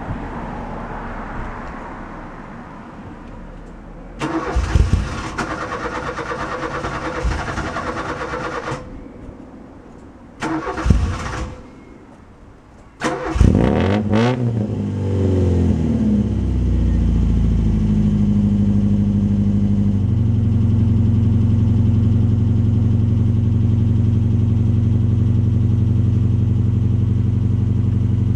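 1988 Ford Fiesta Mk2's 1.1 Valencia four-cylinder with a Weber 32IBF carburettor and straight-through exhaust, hard to start from cold. The starter cranks for several seconds without the engine catching, then cranks briefly a second time. On the third crank, about 13 seconds in, the engine catches, revs up and down, and settles into a steady idle.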